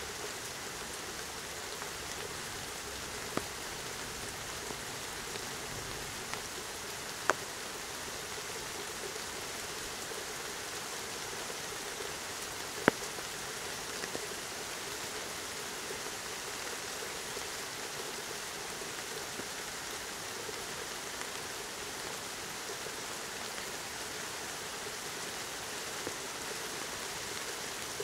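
Steady rain falling, an even hiss of drops with no thunder. A few single sharp ticks stand out, the loudest about halfway through.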